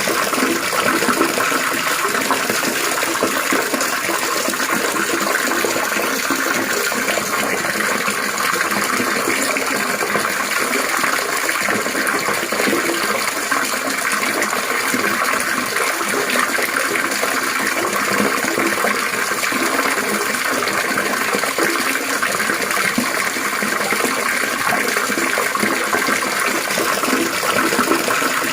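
Water trickling and splashing continuously in a steady, even stream.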